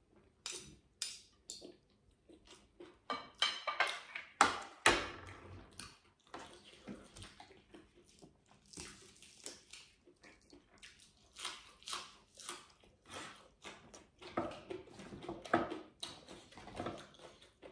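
Close-up eating sounds: chewing with crisp crunches and wet mouth clicks in irregular clusters, loudest a few seconds in and again near the end.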